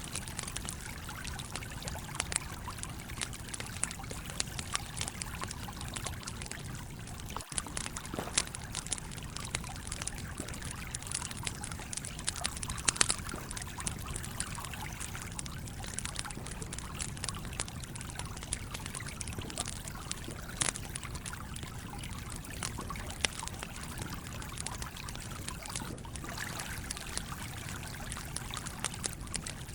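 Stream water flowing steadily, with the irregular crackle and sharp pops of a wood campfire scattered through it.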